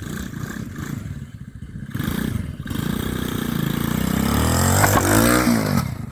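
RC quad bike's motor run up at full throttle, its pitch climbing steadily for a couple of seconds, then dipping and rising again near the end.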